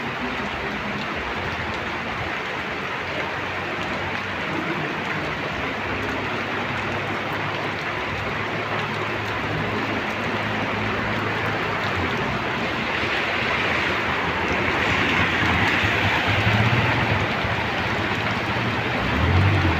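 Steady rain falling, with a motor vehicle's engine hum growing louder in the second half as it comes near.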